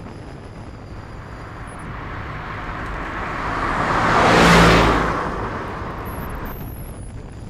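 A motor vehicle passing close by: its engine and road noise swell to a peak about four and a half seconds in, then fade away.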